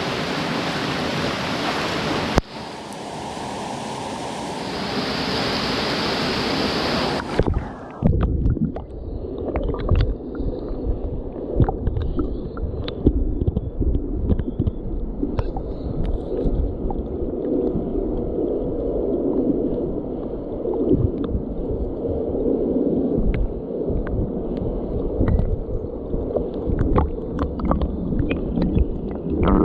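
Rushing mountain-stream water. About seven seconds in, the sound turns muffled and low, with gurgling and scattered clicks, as the microphone goes under the stream's surface.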